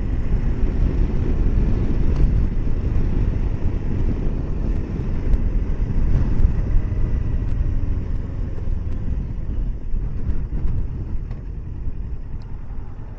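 Kawasaki Versys 650 parallel-twin motorcycle riding along, heavy low wind buffeting on the microphone over the engine. It grows quieter over the last few seconds as the bike slows.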